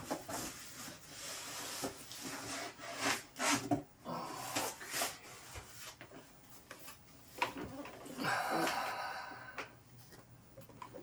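Cardboard packaging being handled and unpacked: irregular rubbing and scraping strokes, with a longer rustling stretch near the end.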